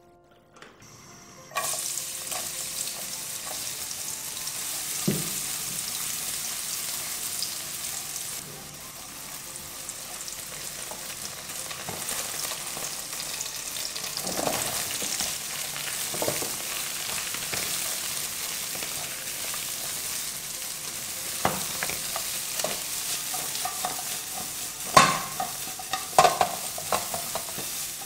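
Hot oil in a nonstick wok starts sizzling suddenly about a second and a half in as minced garlic and scallion go in, and keeps up a steady frying hiss while a spatula stirs and scrapes the pan. Near the end a few louder knocks come as sliced loofah goes into the wok and is tossed, sizzling.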